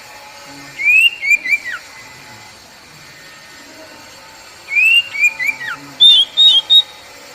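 Oriental magpie-robin (kacer poci) singing its basic song: two short phrases of clear whistled notes that glide up and down, the first about a second in and the second about five seconds in, ending in three short higher notes.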